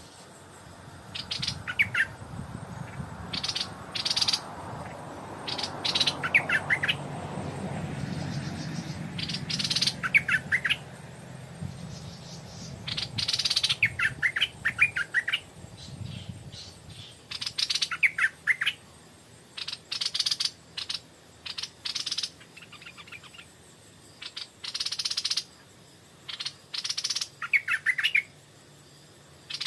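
Stripe-throated bulbul singing over and over in short phrases of quick, high notes, one to two seconds apart. A low rumble swells and fades during the first half.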